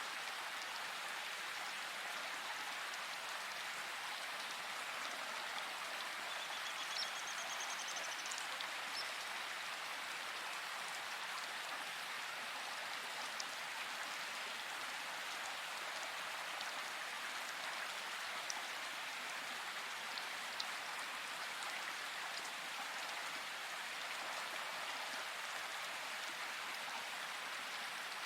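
Steady rain falling, an even hiss with a few louder single drops, and a brief high trill about seven seconds in.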